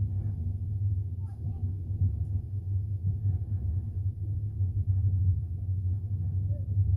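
Steady low rumble of a double-decker passenger train running along the track, heard from inside the carriage.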